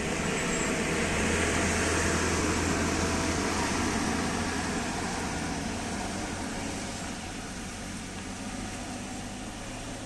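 A heavy bus's engine running hard, with a low steady hum and a wash of mechanical noise; it is loudest in the first few seconds and then slowly fades.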